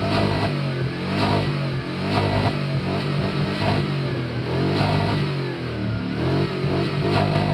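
Chevrolet B-body's V8 revved hard through a loud aftermarket exhaust, blipped up and dropping back about once a second.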